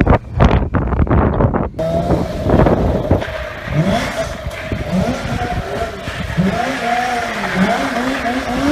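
Stunt motorcycle engine revving hard and held at high revs, its pitch wavering up and down, after a second or two of wind buffeting the microphone.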